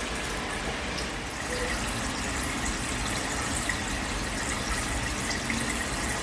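Water running and splashing steadily into an aquarium.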